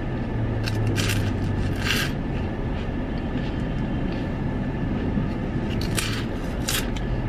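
Steady low rumble of a car's idling engine heard inside the cabin. A few short noisy sounds of someone eating an ice cream cone stand out about a second in, two seconds in and again near the end.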